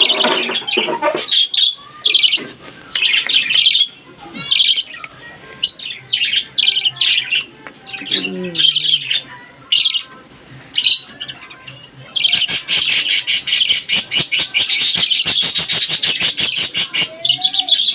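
Budgerigars chirping in short high bursts with pauses, then breaking into a long, dense, continuous chattering warble a little past the middle that stops shortly before the end.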